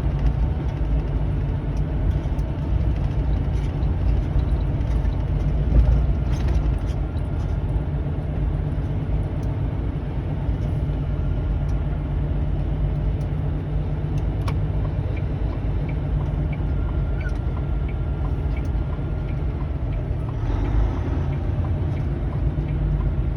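Semi truck cab while driving: a steady low drone of the diesel engine and road noise, with faint light ticks and rattles.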